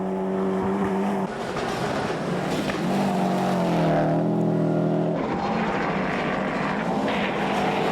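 Rally car engine running hard, its note held steady at first, then falling and climbing again through the middle as the revs change.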